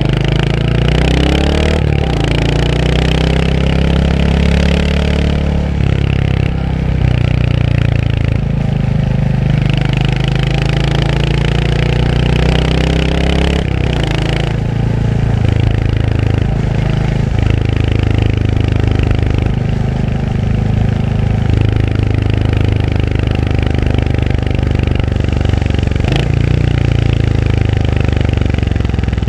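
Royal Enfield Hunter 350's single-cylinder engine pulling under acceleration. Its note rises in pitch through several gear changes over roughly the first fourteen seconds, then holds a steady note at cruising speed.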